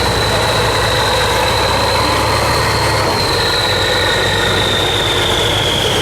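Heavy truck engine running steadily at low revs, with a thin high whine above it that sinks slightly in pitch over the last few seconds.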